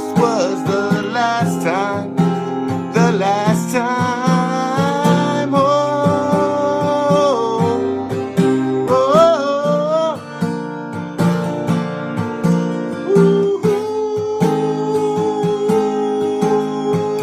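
Acoustic guitar strumming with a voice singing long, sliding notes without clear words for the first several seconds. After about ten seconds the singing eases and the guitar carries on with held chords.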